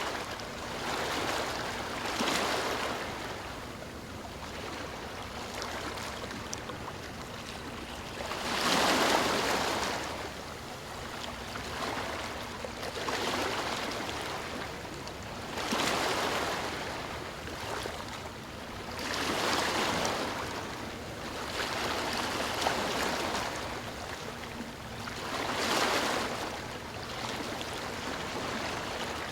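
Sea waves breaking and washing in on the shore, one surge of surf every few seconds over a steady hiss, the biggest about nine seconds in.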